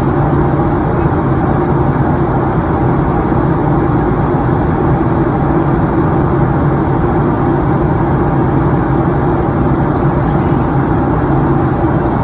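Steady cabin noise inside a Boeing 737-900ER in flight: the hum of its CFM56 turbofan engines mixed with the rush of airflow over the fuselage, a constant low drone with a couple of steady hums.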